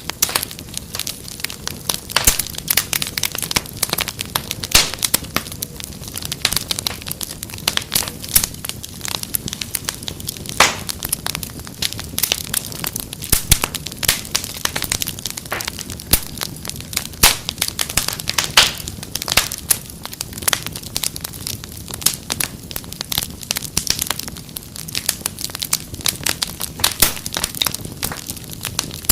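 Wood fire crackling in a fireplace: dense, irregular snaps and pops over a steady low hiss.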